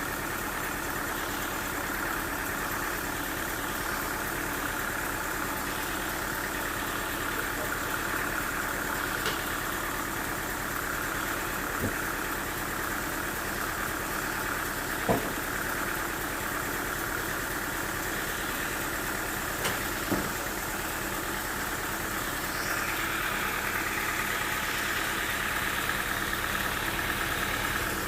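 A machine or engine running steadily, with a few short, sharp knocks, and a little louder near the end.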